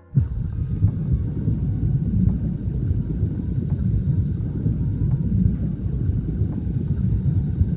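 A loud low rumble that starts abruptly and holds steady, with faint tones above it.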